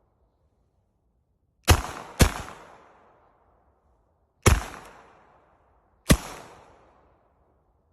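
Retay Xtreme 9 mm traumatic pistol firing four shots: two about half a second apart, then one more about two seconds later and a last about a second and a half after that. Each sharp report is followed by an echo that dies away over about a second.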